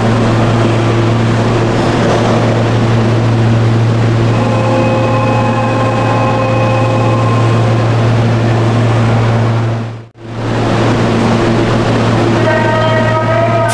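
Electric commuter train at a station platform: a steady low drone with sustained whining motor tones in the middle and again, stacked and building, near the end. The sound drops out for a moment about ten seconds in.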